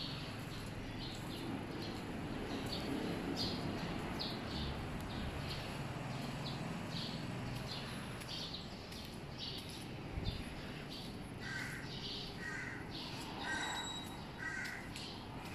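Small birds chirping in short, repeated high notes, with a crow cawing four times about a second apart near the end, over a steady low background hum.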